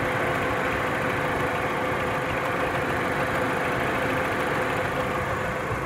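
Audi 1.8T (AWT) four-cylinder turbo petrol engine idling steadily with rapid ringing knocks from the top of the valve cover. The owner suspects the timing chain tensioner or the chain; others have blamed the valves or hydraulic lifters.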